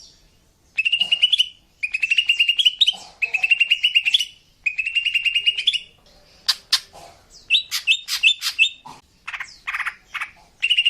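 Female green leafbird (cucak ijo) calling, used as a lure call to draw in males. It gives four quick rattling trills of about a second each, then a few sharp chirps and a run of short separate notes, and ends on another trill.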